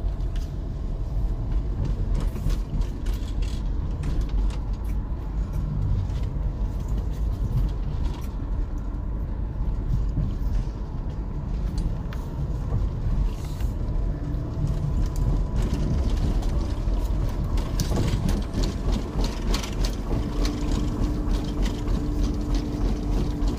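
Car cabin noise while driving: a steady low road and engine rumble with frequent small clicks and rattles.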